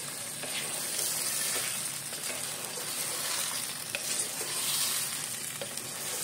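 Chicken pieces with yogurt and salt sizzling steadily in hot oil in a pan while being stirred (bhuna frying), with a few faint knocks scattered through the hiss.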